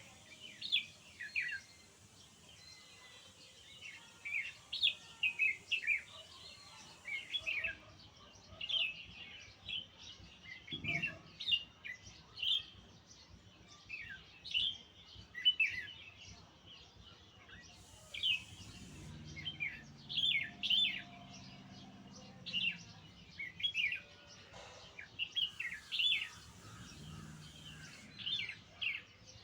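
Songbird chirping: a steady run of short, sharp chirps, each sliding quickly down in pitch, repeated at irregular intervals throughout, with a faint low hum in the background about two-thirds of the way through.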